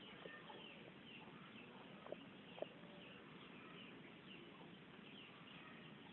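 Faint, repeated short chirps of birds over a low background hiss, with two small clicks a little after two seconds in.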